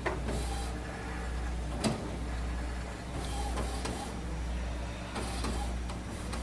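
Epson WorkForce WF-7610 inkjet printer's internal mechanism running while it checks the newly installed ink cartridges: three short whirring passes and a single click about two seconds in.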